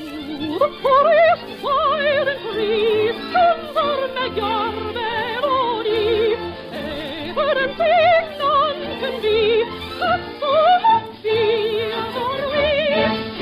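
Operetta music: a high solo voice sings flowing melodic phrases with a strong vibrato over an orchestral accompaniment.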